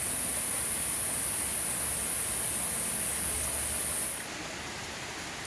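Steady hiss of light rain falling, with a steady high-pitched buzz over it that cuts off abruptly about four seconds in.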